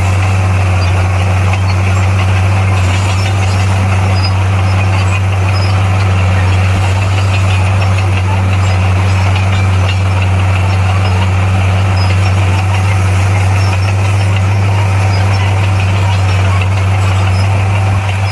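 Heavy diesel earthmoving machine engine running steadily with an even low drone, no revving or breaks.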